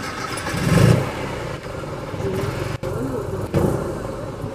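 Classic car engine running at idle, with a brief blip of the throttle a little under a second in.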